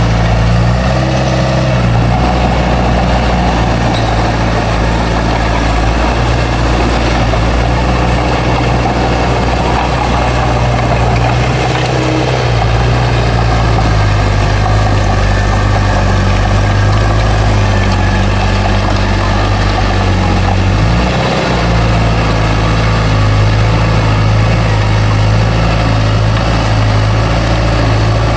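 Bulldozer's heavy diesel engine running steadily under work, with brief shifts in engine note about a second in, near the middle, and about two-thirds of the way through.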